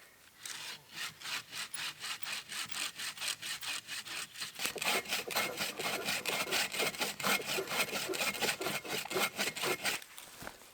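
Hand saw cutting through wood in quick, even strokes, about four a second, biting harder from about halfway in and stopping shortly before the end.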